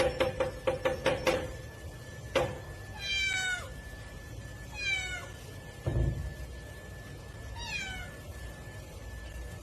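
Domestic cat meowing three times, each call falling in pitch. A quick run of taps or knocks comes first, in the first second and a half, and there is a dull thump between the second and third meows.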